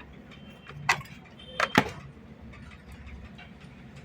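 A few sharp handling clicks and knocks, once about a second in and twice close together just after, over a low steady hum. These come from handling a multimeter and its probes while measuring a repaired BLDC controller.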